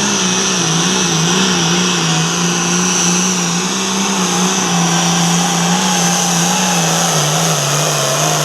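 Turbocharged diesel engine of a hot farm class pulling tractor running hard at high, fairly steady revs, with a high whine over the top, as under load in a pull. The pitch wavers a little and dips slightly near the end.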